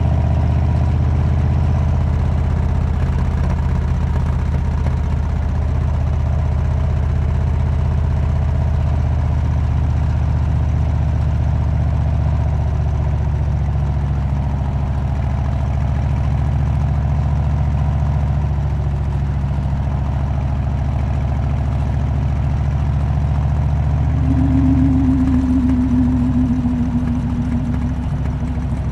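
Harley-Davidson Road King's V-twin engine running steadily through a Cobra aftermarket exhaust, with a deep, even exhaust note. A steady higher-pitched hum joins near the end.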